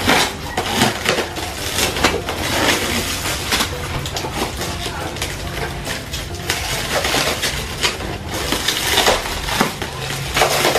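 Packaging crinkling and rustling as it is handled and opened by hand, a steady run of crackles and small clicks.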